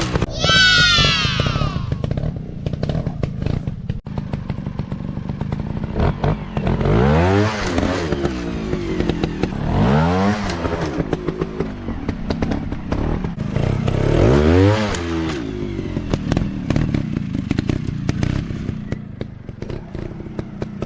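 Dirt bike engines revved in repeated bursts, each rising and falling in pitch: a high rev just after the start, then three more spaced a few seconds apart. Clattering and thumps run throughout.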